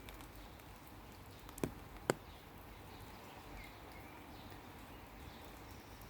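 Faint outdoor background hush with two short clicks about two seconds in, half a second apart.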